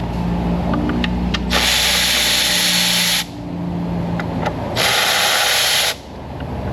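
Power tool run twice, about a second and a half and then about a second, spinning out the intake plenum bolts.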